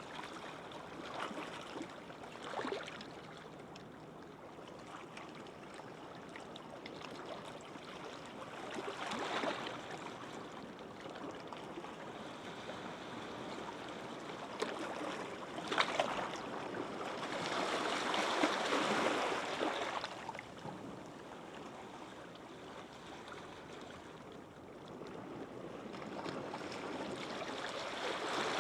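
Gentle sea waves washing up a sandy beach: a soft, continuous wash that swells as each wave breaks, loudest about two-thirds of the way through.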